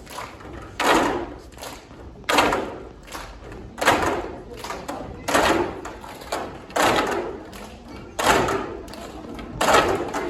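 A group of children doing cup percussion, striking plastic cups down in unison about every second and a half, with lighter taps in between.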